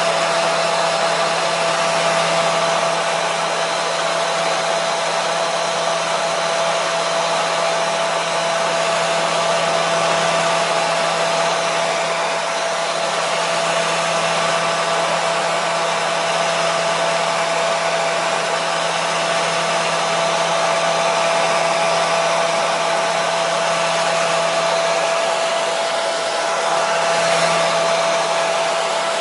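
Hair dryer running steadily: a constant airy rush of fan and blown air with a steady motor whine, used as white noise to soothe a colicky baby to sleep.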